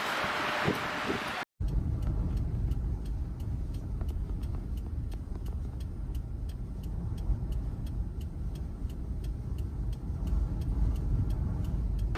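A steady low rumble, like a vehicle running, with a faint, even ticking about three or four times a second, after a short stretch of windy hiss that cuts off about a second and a half in.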